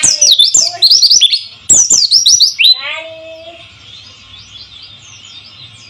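White-eye (pleci) song: a rapid string of high, downward-sweeping notes in quick bursts for nearly three seconds, ending in one lower falling call. After that only faint twittering continues over a steady background hiss of trickling water.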